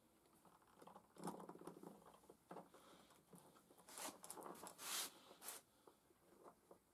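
Faint scattered clicks and rustles, thickest about a second in and again around four to five seconds in.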